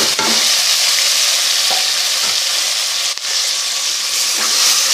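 Chopped tomatoes sizzling in hot ghee with browned onions, garlic and ginger in a cooking pot, a steady loud hiss as they begin to fry, with one sharp click about three seconds in.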